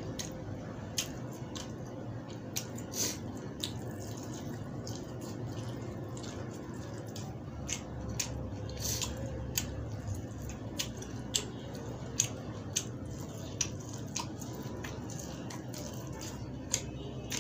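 Close-up eating sounds of a person biting and chewing boiled corn on the cob: irregular wet clicks and smacks from the mouth, over a steady low hum.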